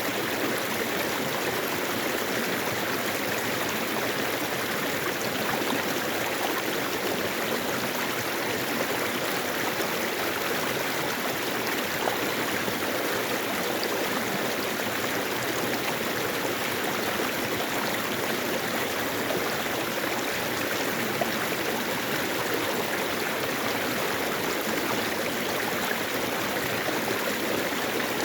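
Mountain valley stream, water running steadily over rocks.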